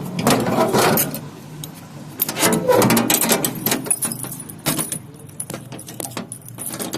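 Metallic jingling and clicking, fairly loud and busy, with a denser stretch in the first half.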